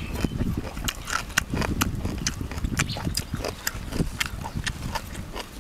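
Chewing and lip-smacking of people eating: a steady stream of quick, irregular mouth clicks and smacks.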